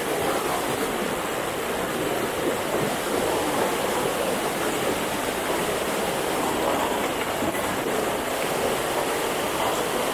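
Steady rush of water flowing over the rocks at the top of a waterfall.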